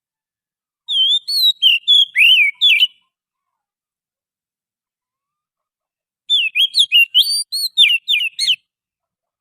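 Oriental magpie-robin (kacer) singing: two phrases of quick, varied whistled notes, each about two seconds long, with a pause of about three seconds between them.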